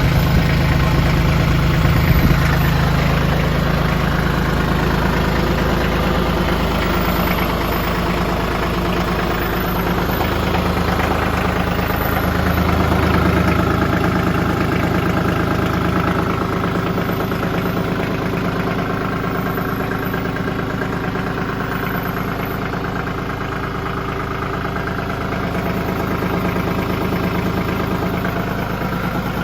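TYM 2515h compact tractor's diesel engine idling steadily as it warms up after a cold start. The low engine note shifts slightly about halfway through.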